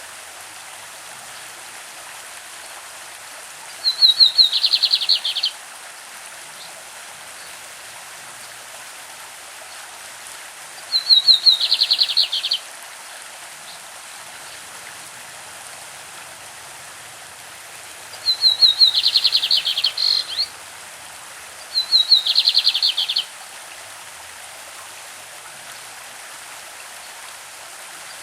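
Lined seedeater (bigodinho) singing its classic song four times. Each phrase lasts about a second and a half to two seconds: a high trill that steps down into a lower run of rapid notes. The song sits over the steady rush of a stream.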